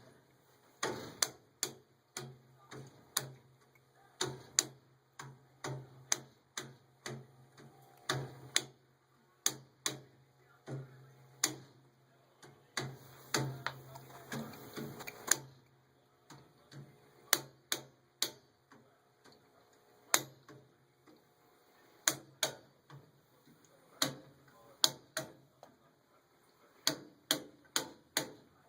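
Furnace ticking and clicking irregularly, sharp clicks roughly once or twice a second. A low steady hum runs under the clicks from about a second in and stops about halfway through.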